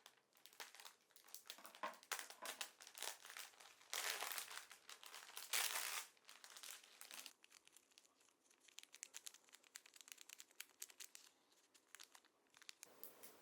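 Crinkly material being handled, crinkling and rustling, with two louder bursts about four and six seconds in and a run of small crackles later on.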